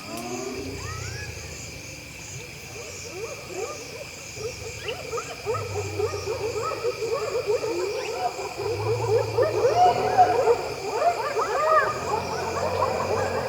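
A pack of spotted hyenas giggling and whooping in a dense, chattering chorus of short rising calls that builds and grows louder partway through, with low growls underneath. A steady high insect chorus runs throughout.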